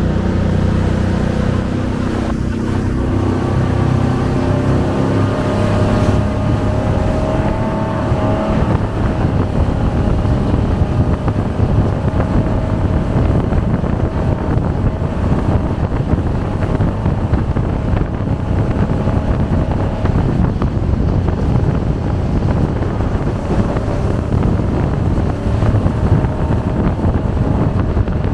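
Jet boat's engine and water jet running under power: the engine note climbs as it accelerates over the first several seconds, then settles into a steady, dense rush of engine, water and wind at speed.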